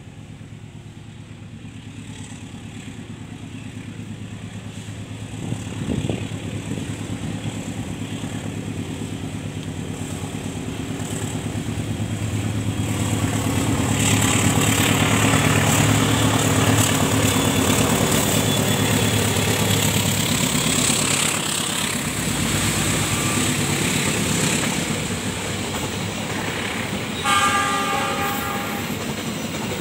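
Diesel locomotive hauling a passenger train along the far track. Its engine and wheel noise grow steadily louder as it approaches, peak as it passes, then ease to the rolling of the coaches over the rails. A short burst of high horn-like tones sounds near the end.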